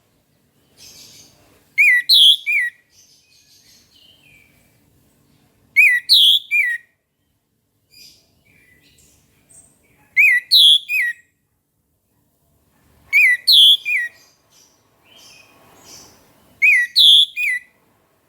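Orange-headed thrush singing: loud, clear whistled phrases of two or three sweeping notes, repeated about every three to four seconds, with soft twittering between the phrases.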